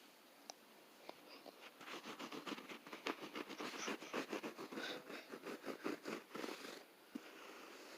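Kitten scratching and scrabbling at play: a fast run of light, faint scratches, several a second. It begins a second or so in and stops shortly before the end.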